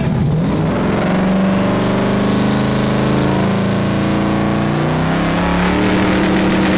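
A car engine revved up and held at high, steady revs; the pitch climbs about half a second in and then stays level.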